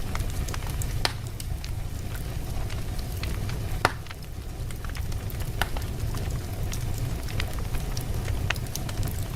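Wood fire burning in a fireplace: a steady low rumble of the flames, with scattered crackles and pops from the burning logs. The sharpest pop comes about four seconds in.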